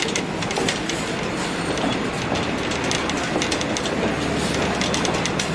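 Passenger train cars rolling along the track, with a steady rumble and a quick run of wheel clicks over rail joints, heard from an open platform between the cars.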